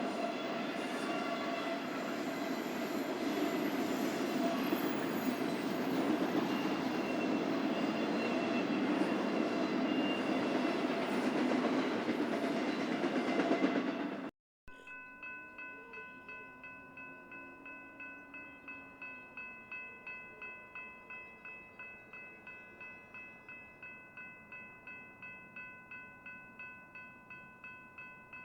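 Freight train rolling past, a dense steady rumble of wheels and cars. After a cut about halfway, a railroad grade-crossing bell rings steadily about twice a second.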